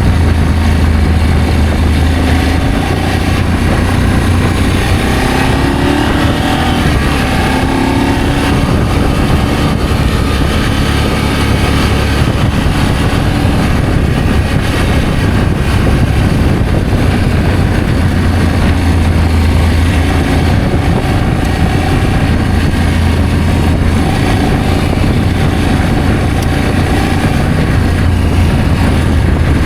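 Adventure motorcycle engine running steadily under way, with its pitch rising and falling about six to eight seconds in.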